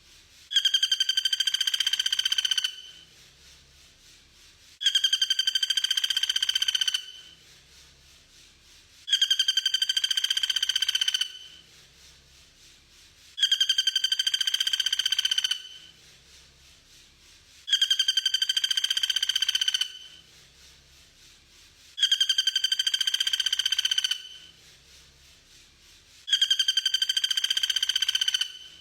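A looped bird call: a fast trill on one steady pitch, about two seconds long, repeated identically seven times at even spacing, played as a masteran recording for training songbirds.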